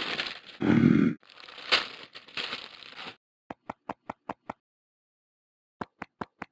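Rustling, crinkling handling noise with a heavy thump about a second in, then two quick runs of short, sharp clicks, about five a second: six clicks, a pause, then about seven more.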